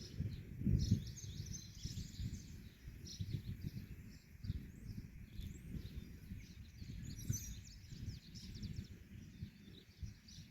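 Many small birds chirping busily in short, overlapping calls, over a low rumbling noise with a thump about a second in.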